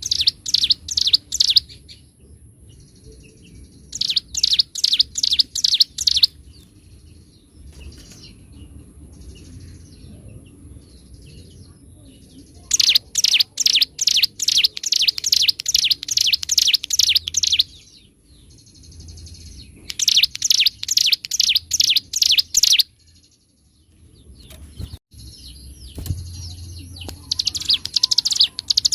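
Ciblek gunung, a prinia, singing in loud, rapid drilling phrases of sharply repeated notes, about eight to ten a second. Five bursts of a second and a half to five seconds each, with softer twittering between them.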